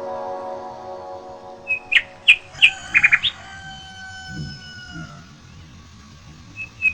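Birds chirping: a handful of short, sharp high calls and a quick trill about two to three seconds in, as background music fades out.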